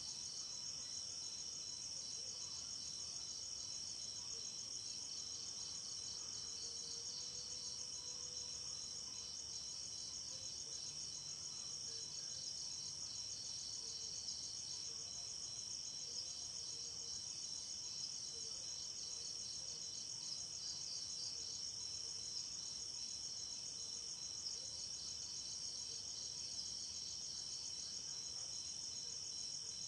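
Night insect chorus of crickets chirping without pause, a dense, fast-pulsing high trill with a few steadier high tones beneath it.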